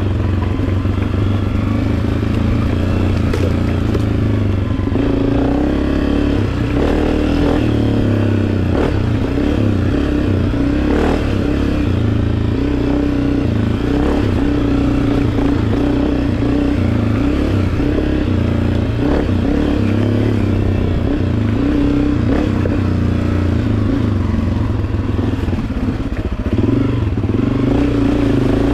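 Beta 300 RR two-stroke single-cylinder dirt bike engine running at fairly steady revs, with a few brief knocks and clatter from the bike.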